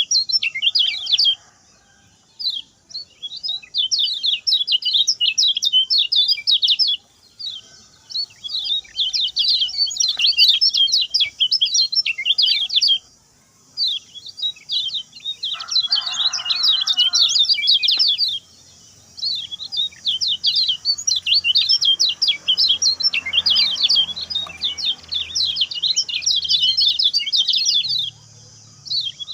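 Common iora (kecial kuning) singing fast, high chirping phrases several seconds long, separated by short pauses.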